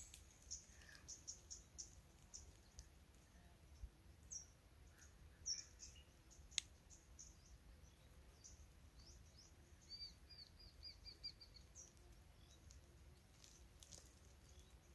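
Faint bird chirps over a quiet outdoor background: scattered short high chirps, then a quick run of about eight repeated notes about ten seconds in. A single sharp click a little past halfway.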